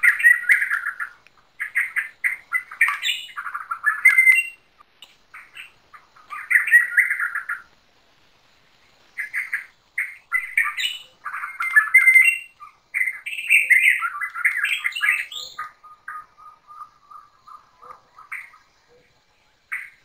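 Rainforest birds calling: repeated chattering and squawking calls in bursts, with a brief lull about eight seconds in and a thin, fast trill on one pitch in the later part.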